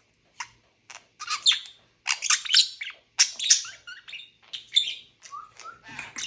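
Pet budgerigars chattering: quick, high chirps and warbles in short bursts.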